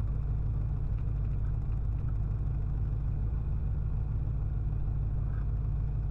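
Cessna 177RG Cardinal's four-cylinder Lycoming IO-360 engine running at low taxi power, a steady low drone heard in the cockpit.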